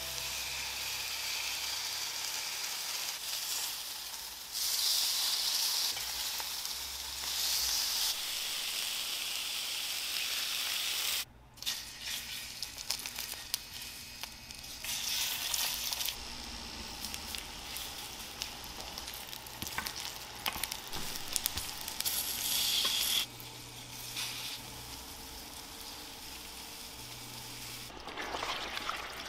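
Food sizzling and frying in hot oiled pans (chicken breasts on a cast-iron grill pan, battered green peppers in a square frying pan), with the sizzle swelling and dropping at several points and a brief break about eleven seconds in. Light clicks of metal tongs against the pan are heard over it.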